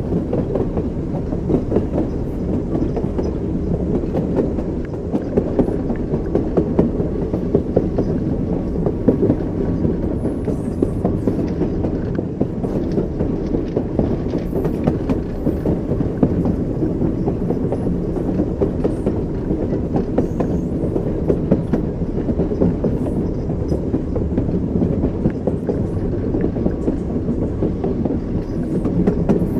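Moving train's wheels clattering over rail joints, with a steady low rumble of the carriage and frequent short clicks.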